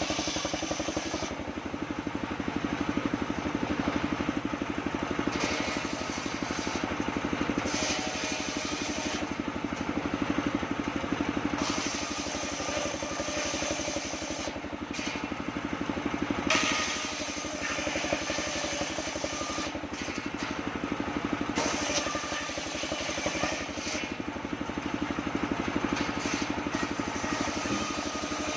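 Engine of a home-built circular sawmill running steadily, with the blade ripping sengon wood now and then, its high-pitched cutting noise rising and falling over the engine.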